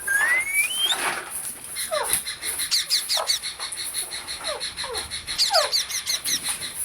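Green parrots calling: a rising whistle at the start, then many short falling squawks and bursts of quick high chirps.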